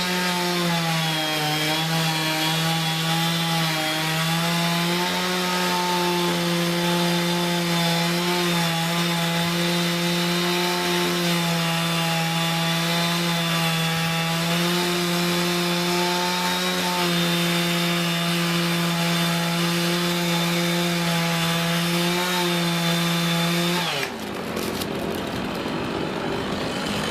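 Chainsaw running at high revs, cutting through wood with a steady engine note that dips slightly now and then; about three seconds before the end the revs fall away and a rougher noisy sound takes over.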